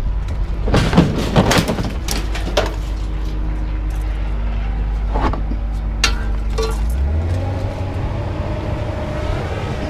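A vehicle or machine engine running steadily, its note stepping up higher about seven seconds in, with a few scattered knocks and clanks from scrap being handled.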